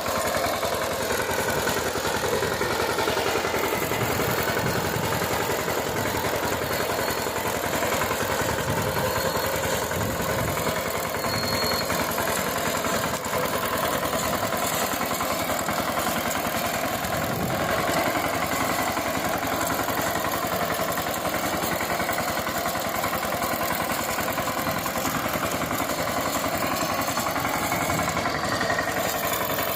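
VST Shakti power tiller's single-cylinder diesel engine running steadily.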